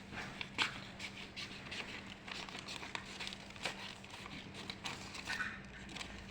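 Faint scratching, rustling and light clicks of paper being handled and cut by hand.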